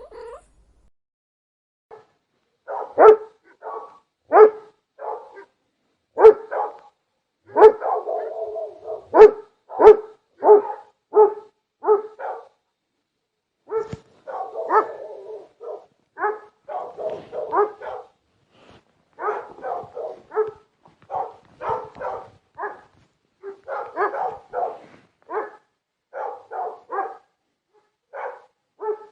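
A dog barking repeatedly, in single loud barks and quick runs of barks with short pauses between, starting about two seconds in.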